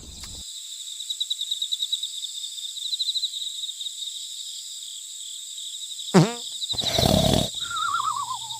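A steady, high warbling chirp runs throughout. About six seconds in there is a quick falling swoop, then a short, loud, animal-like roar, then a wavering tone that slides downward.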